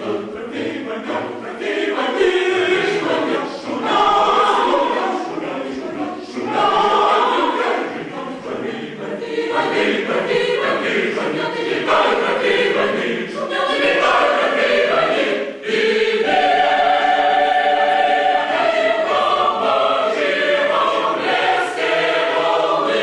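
Choir singing a cappella: many voices in held chords, phrase after phrase, with a short breath about two-thirds of the way through.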